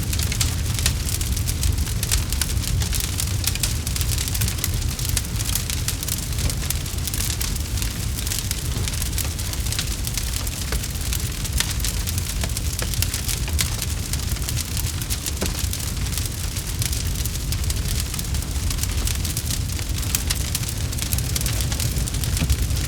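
Campfire crackling: a dense, continuous stream of small pops and snaps over a low, steady rumble.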